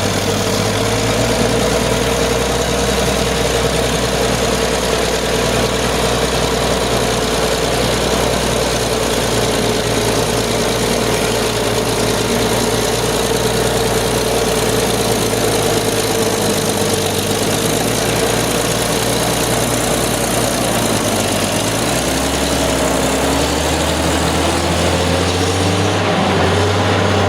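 Caterpillar heavy earthmoving machine's diesel engine running steadily, its note climbing in pitch over the last few seconds.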